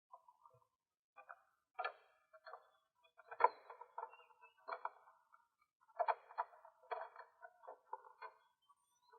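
Dove calls used as a lure: repeated short cooing notes in quick clusters, one phrase after another.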